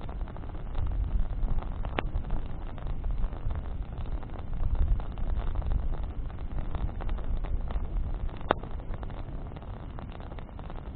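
Campfire of burning branches crackling over a steady low rumble. Two sharp pops stand out, about two seconds in and again some six seconds later.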